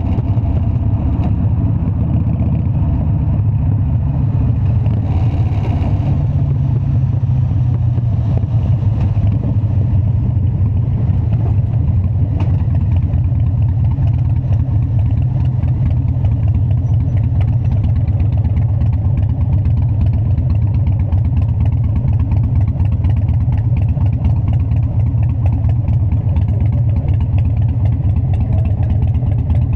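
Harley-Davidson Dyna's V-twin engine running steadily, a low, even rumble with no revving.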